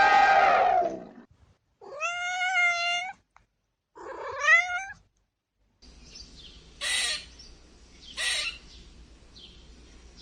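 A cat meowing: two drawn-out meows, the second bending up in pitch, then two short, harsher cat calls over a low hum. A loud animal call, carried over from the clip before, fades out in the first second.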